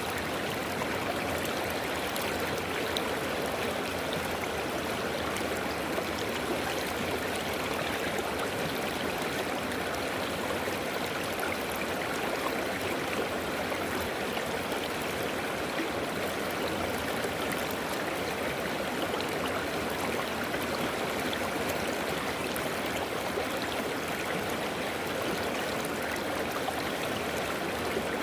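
River water running over rocks in a steady rush, with small splashes flickering through it.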